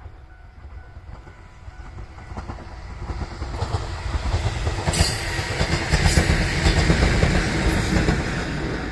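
JR 103 series electric train approaching and passing close by, growing louder to a peak about five to eight seconds in, its wheels clacking over the rail joints.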